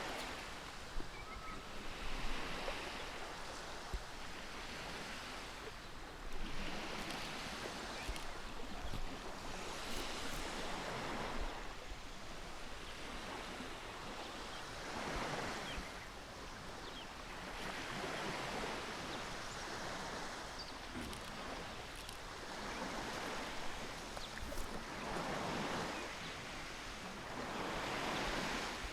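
Ocean surf washing in slow waves, each one swelling and fading every three to four seconds, with wind behind it.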